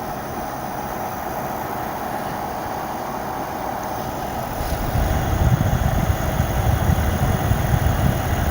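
Two EVGA GTX 670 FTW graphics cards under full benchmark load: a steady rush of cooler fans with the buzzing of coil whine, which the owner puts down to overclocking. About five seconds in, a louder uneven low rumble joins.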